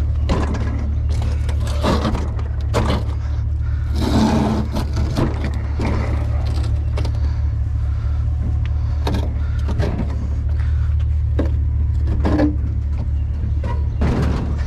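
Truck engine running with a steady low rumble, under irregular knocks, clanks and scrapes.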